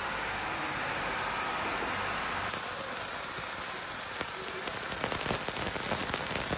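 Ultrasonic washing machine running, a steady hiss with a fizzing crackle of cavitation in the cleaning tank that grows busier from about two and a half seconds in.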